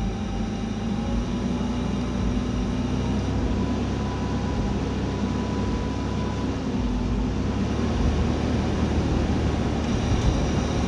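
An engine running steadily with a continuous low drone.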